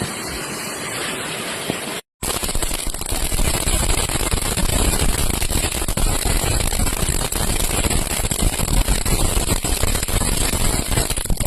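Rail firecracker burning along its line with a loud, crackling hiss as it spews sparks; the sound drops out for a moment about two seconds in, then comes back rougher and crackling.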